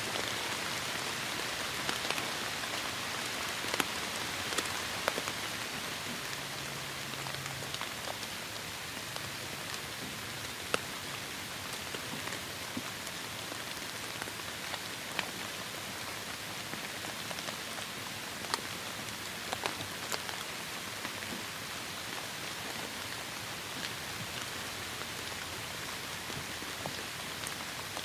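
Heavy rain falling steadily, an even hiss with sharp ticks of single drops striking close by.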